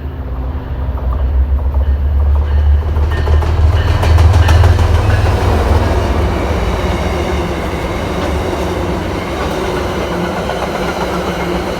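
MBTA commuter rail train passing: the diesel locomotive's deep rumble builds to its loudest about four to five seconds in, then gives way to the steady rolling of the coaches, with wheel clicks over the rail joints.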